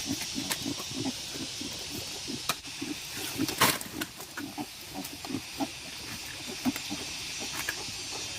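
An animal grunting in short, low, repeated grunts, two to four a second, over a steady high hiss, with a louder rasping burst about three and a half seconds in.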